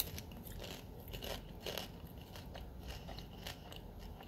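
A person chewing a mouthful of buttered popcorn with whipped cream cheese, with a few faint, irregular crunches.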